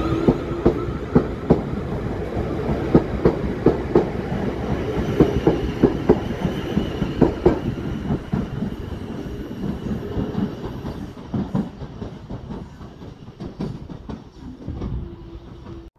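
South Western Railway Class 450 Desiro electric multiple unit running along the platform, its wheels clicking over the rail joints in a regular rhythm over a steady rumble. The sound fades over the last few seconds as the train draws away.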